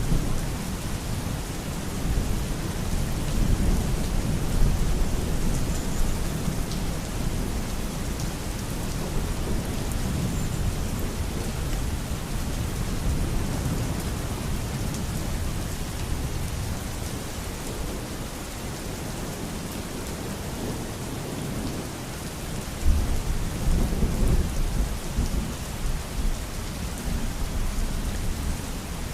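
Steady heavy rain with low rolling thunder rumbling under it, swelling again about three-quarters of the way through.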